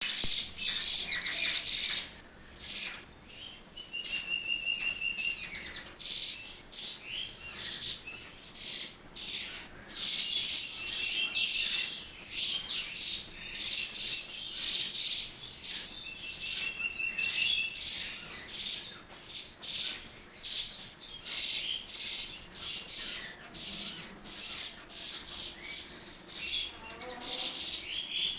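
A flock of small birds chirping continuously, many short high calls overlapping, with a rapid trill breaking in about four seconds in, again near eleven seconds and near seventeen seconds.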